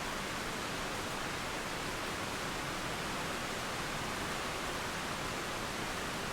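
Steady rain falling, a constant even hiss with no thunder or birdsong in it.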